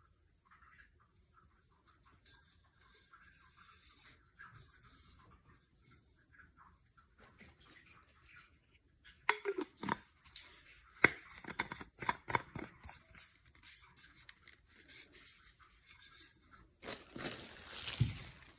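Close handling noises: soft rustling, then a run of sharp clicks and taps, and a louder rustling scrape near the end.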